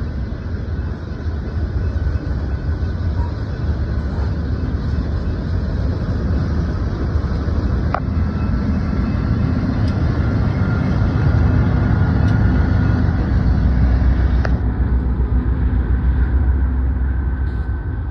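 Freight train rolling past, wheels rumbling on the rails, with a faint steady high squeal. The diesel engine of a BNSF locomotive running as a distributed power unit mid-train grows louder as it passes, with a few sharp clicks.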